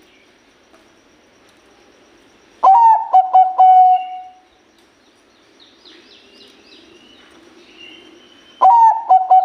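Bangkok-bred zebra dove (perkutut bangkok) singing: a phrase of quick stuttering coos that ends in a longer held coo, about three seconds in, and a second phrase starting near the end. Faint high chirps of small birds come in between.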